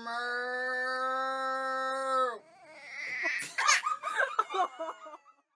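A long, steady held note for about two and a half seconds, then a baby starts crying in broken, wavering cries.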